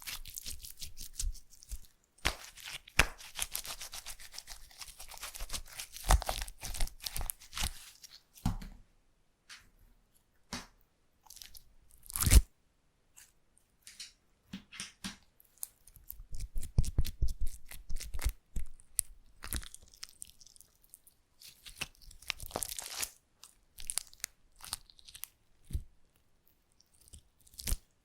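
Slime being squeezed and stretched by hand, giving bursts of dense crackling and popping with quieter pauses between. About twelve seconds in there is one loud sharp pop.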